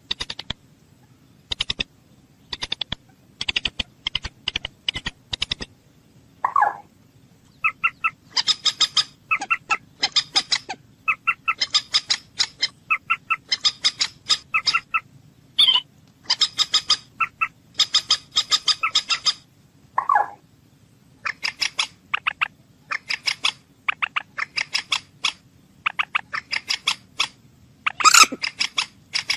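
A bird calling in quick bursts of short, sharp clicking notes, with a lower falling call about seven seconds in and again about twenty seconds in.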